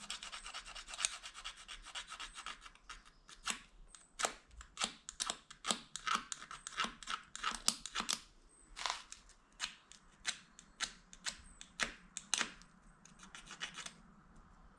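Plastic fork prongs scraping hard along the edge of a plastic spoon to sharpen it, in a dense run of rubbing for the first few seconds and then separate quick strokes about two a second.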